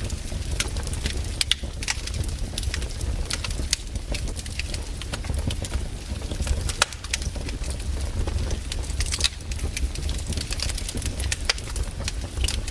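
Wood campfire crackling, with irregular sharp snaps and pops scattered throughout over a steady low rumble.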